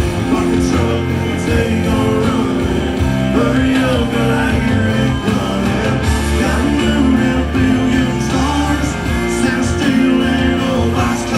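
Country-rock band playing live through a concert sound system, loud and steady, with guitars over a heavy low end.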